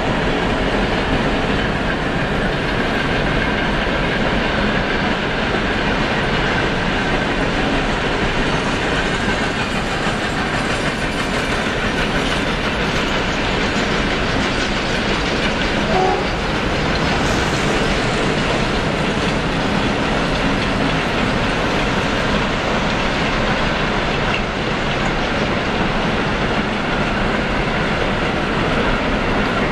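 Long freight train of container wagons rolling past, with a steady loud noise of its wheels on the rails.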